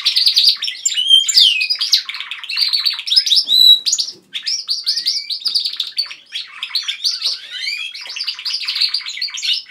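Domestic canaries singing: long runs of rapid trills and chirps, with a brief break about four seconds in.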